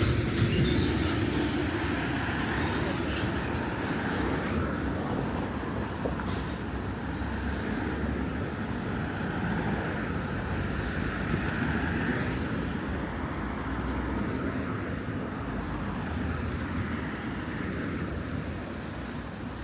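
Steady town-street noise with road traffic going by.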